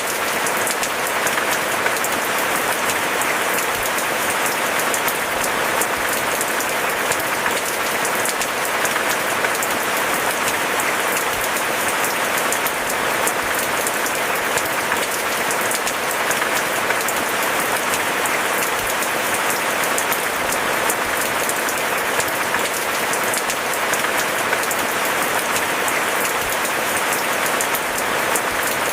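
Steady rainfall, an even, dense patter of many drops with no thunder.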